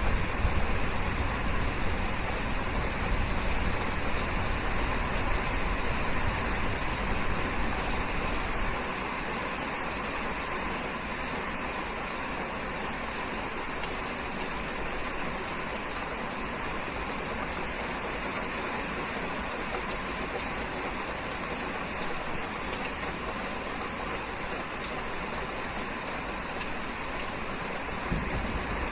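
Steady rain hiss, even and unbroken. A deep low rumble under it fades out about nine seconds in and comes back near the end.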